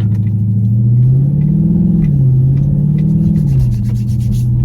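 Car engine and exhaust with the mid muffler deleted, pulling away under throttle with a loud low drone. Its pitch climbs, drops about two seconds in, climbs again and drops once more, then settles into a steady cruise.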